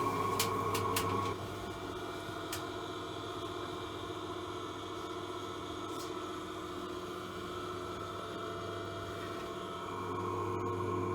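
In-line duct ventilation fan running with a steady hum and a whining drone, the abnormal noise of a fan due for replacement. A few light clicks in the first second; the higher whine drops away about a second in and comes back near the end.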